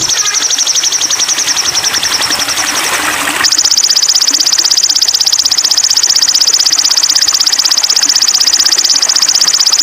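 Sogon bird song from a masteran training recording: a high, fast, even buzzing trill. A hiss under it cuts off about three and a half seconds in, where the trill turns louder.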